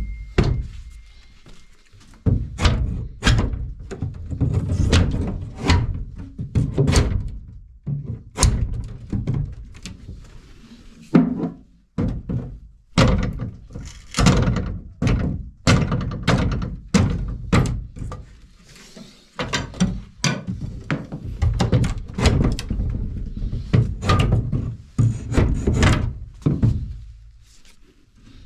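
Heavy blows struck over and over, irregular, about one or two a second with a few short pauses: hand work knocking apart parts of an old house during renovation.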